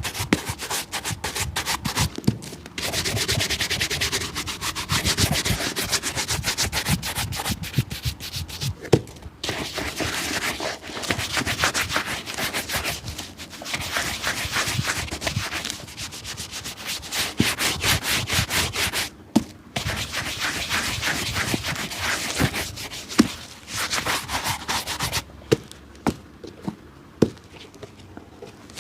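Rapid back-and-forth rubbing strokes on a shoe, in runs of several seconds broken by short pauses, with a few light clicks in the later part.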